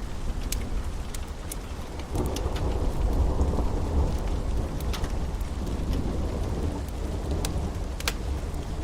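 Storm ambience: steady rain with scattered sharp drops ticking, under a low rumble of thunder that swells about two seconds in and slowly dies away.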